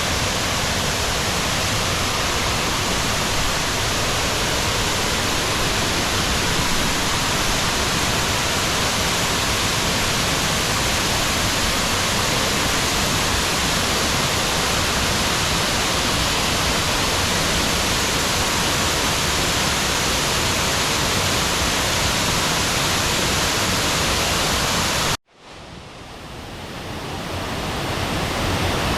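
Steady, even rush of falling water. Near the end it cuts off suddenly and fades back in over a few seconds.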